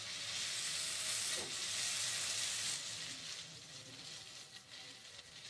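Chicken fry sizzling in a steel kadai: a steady frying hiss that swells over the first three seconds or so, then dies down.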